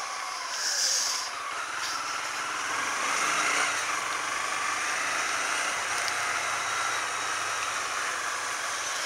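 Motorcycle engine running while being ridden, its pitch wavering a little, under a steady rushing noise of wind and rain. A short hiss sounds about a second in.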